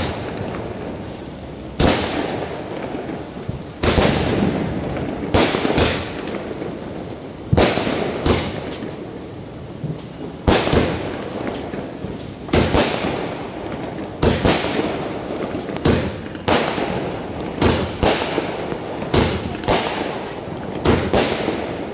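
A 120-shot aerial fireworks cake firing shot after shot: a sharp bang every second or two, each trailing off over a second or so. The shots come faster in the second half.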